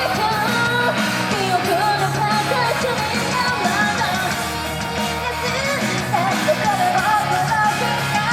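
Female idol vocals singing live over a loud rock backing track with electric guitar.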